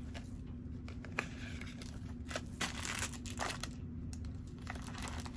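Packaging being handled and opened by hand: intermittent crinkling and rustling with small clicks, busiest in the middle.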